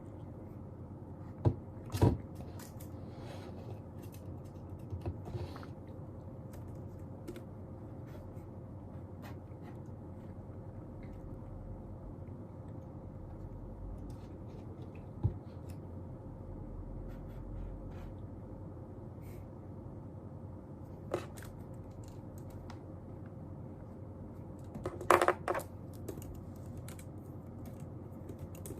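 Steady room noise with a faint hum, broken by a few sharp taps and clicks of small objects handled on a desk, and a short cluster of louder knocks near the end.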